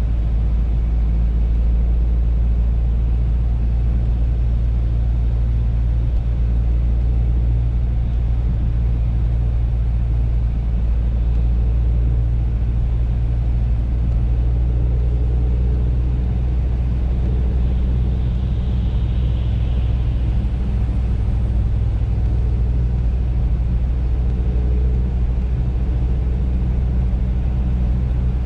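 Audi A3 driving at a steady speed: a constant low rumble of engine and road noise.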